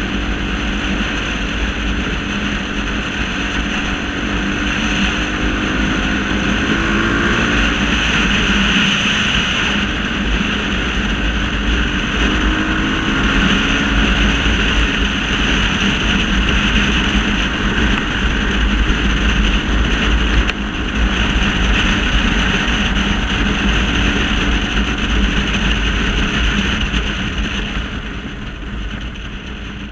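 Single-cylinder trail motorcycle engine running, its pitch rising and falling as the throttle changes, with a steady hiss over it; the sound fades near the end.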